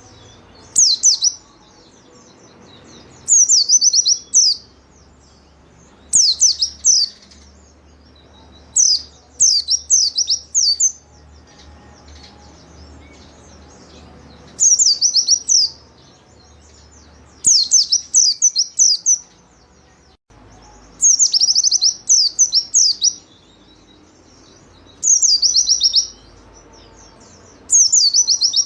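A pleci (white-eye, Zosterops) singing high, quick chirping phrases. Each phrase is a rapid run of falling notes lasting about a second, and the phrases repeat every few seconds.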